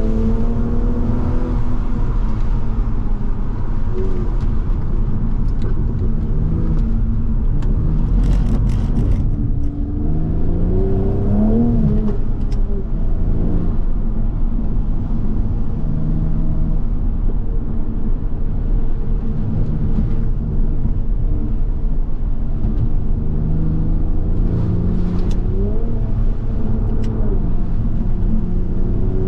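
Toyota Supra MK5's turbocharged straight-six engine running under way, its revs rising and falling several times, over a steady rumble of tyre and road noise on a wet road.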